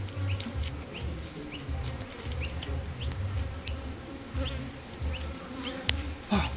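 Honeybees buzzing in numbers around an opened hive, a continuous, pulsing hum, with short high chirps over it and a sharp click near the end.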